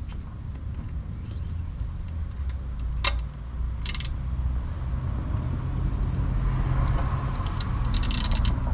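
A motor vehicle's low engine hum, steady and slowly growing louder, with a few sharp clicks a few seconds in and a short clattering burst near the end.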